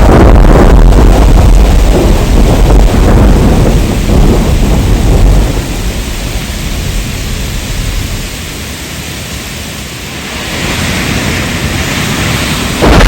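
Thunder rumbling heavily over steady rain, dying away about halfway through and leaving the hiss of rain. The loud rumble cuts back in suddenly just before the end.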